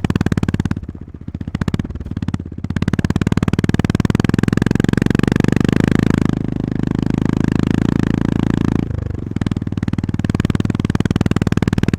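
Honda GB350S's air-cooled single-cylinder engine pulling the motorcycle along, with a fast, even beat of exhaust pulses. The throttle eases off briefly a few times, about a second in and again near the end, then picks back up.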